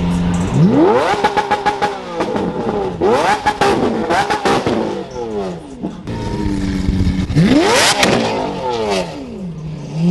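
High-performance car engine revved hard three times, each rev rising sharply and falling back to idle, with rapid crackling pops from the exhaust as the revs drop.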